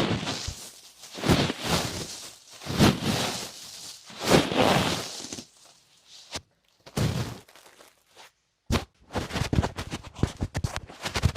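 Close-miked ear-cleaning ASMR sounds: scratching, rustling strokes about every second and a half, then after a short pause, about nine seconds in, a quick run of crackling taps.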